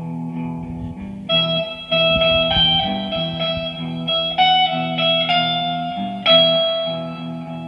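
Guitar playing a slow picked melody, single notes ringing out one after another over a held low chord.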